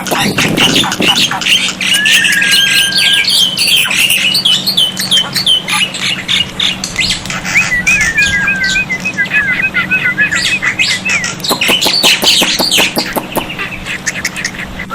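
Black-winged myna (jalak putih) calling: a busy mix of whistled notes, fast runs of short repeated chirps and harsh clicking rattles, with a steady low hum underneath.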